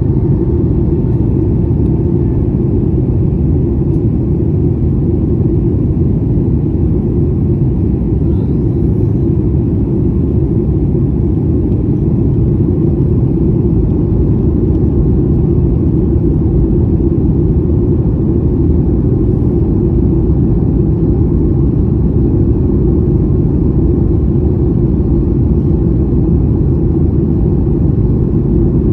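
Steady low rumble of a jet airliner's cabin noise in flight, engines and airflow droning evenly.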